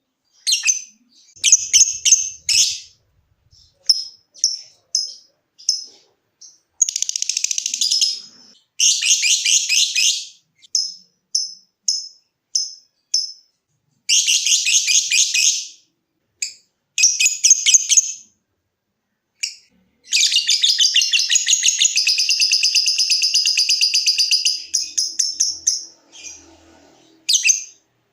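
Lovebird calling: short sharp chips alternate with rapid chattering runs of a second or two. Near the end it breaks into one unbroken chatter of about five seconds, the long 'ngekek' that keepers prize.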